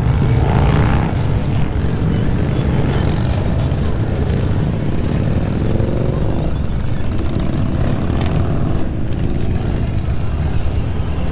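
Motorcycle engines running, a steady low rumble, with bikes riding past whose pitch glides about a second in and again around five to six seconds in.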